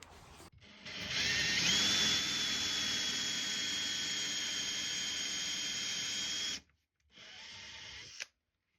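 A small high-speed electric motor whines up to speed and runs steadily for about five seconds, then cuts off. A shorter, quieter run follows.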